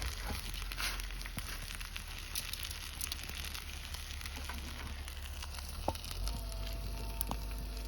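Food sizzling in a pan over a wood campfire: a steady frying hiss with scattered crackles and pops.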